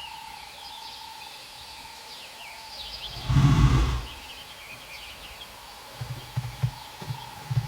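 Wild outdoor ambience: small birds chirping faintly and high throughout, with one loud, short, low animal call about three seconds in and a few short low sounds near the end.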